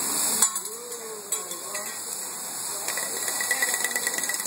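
Food sizzling on a steel hibachi griddle, with metal spatulas clacking sharply against the hot plate a few times in the first second and a half. A thin, steady high whistle joins the hiss about three seconds in.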